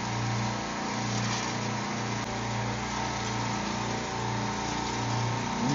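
Steady drone of a supermarket refrigeration compressor rack running, a low hum with a slight regular throb under a constant hiss.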